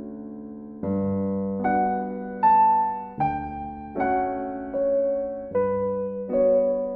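Gentle background piano music: single notes and chords struck at a slow, even pace, each fading away before the next.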